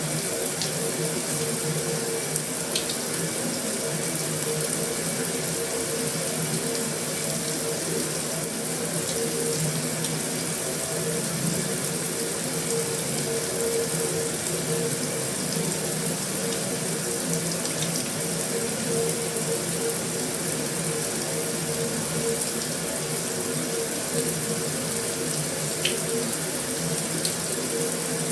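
Heavy rain falling steadily on a metal roof, an even rushing patter with a couple of sharper drop ticks.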